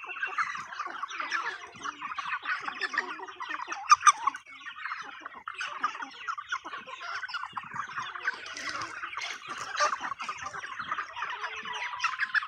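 A flock of chickens clucking and calling all at once, a dense, continuous chatter of many overlapping short calls as they crowd in for treats. About four seconds in there is one brief, louder sharp sound.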